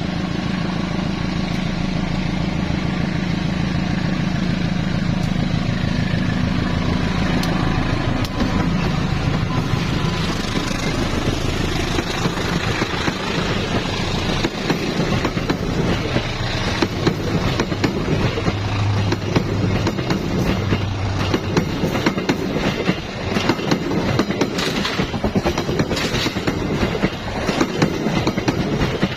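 A train passing close by. At first there is a steady low hum, then from about eight seconds in the wheels clatter over the rail joints in a dense run of rapid clacks.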